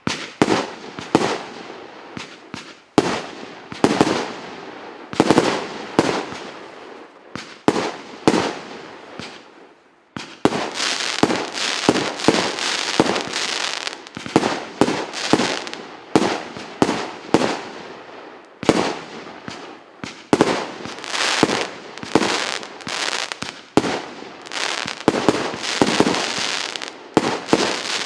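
A 48-shot, 1.25-inch consumer firework cake firing: a rapid series of launch bangs and bursts, about two a second, with crackling between them. It thins briefly about a third of the way in, then fires more densely.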